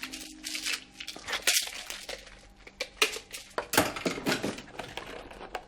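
Pills and their container being handled as someone takes medication: a string of short, irregular handling noises.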